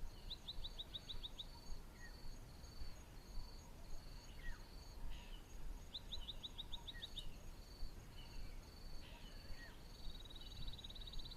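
Bush ambience: an insect chirping in a steady, even pulse, with birds calling over it. There are two quick runs of about eight falling notes, one near the start and one about six seconds in, and several short down-slurred whistles.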